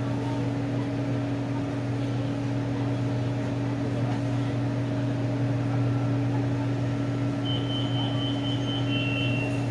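Steady low hum inside a BTS Skytrain car standing at a station platform. In the last couple of seconds a high pulsing electronic beep sounds, then gives way to a slightly lower steady tone.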